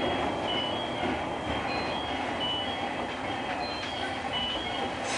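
JR 201-series electric train running along the line, heard from inside the driving cab: a steady rumble of running noise, with short high-pitched beeps scattered through it.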